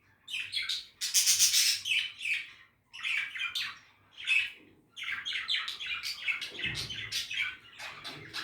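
Budgerigars chirping and chattering in quick runs of short chirps, with brief pauses about three and five seconds in.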